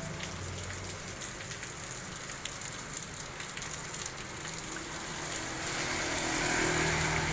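Heavy rain falling, with drops ticking on hard surfaces. A motor vehicle's engine hum rises in the second half.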